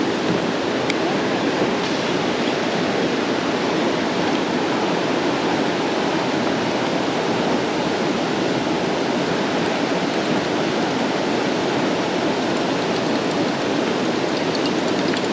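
Steady rush of creek water running through rough water.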